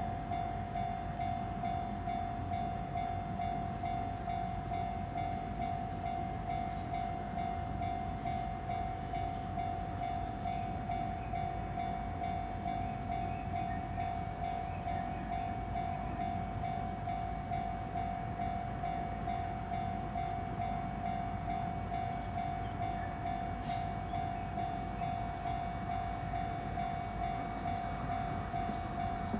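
Long freight train of oil tank cars rolling past, a steady rumble of wheels on rails that holds even throughout, with a steady high tone throughout.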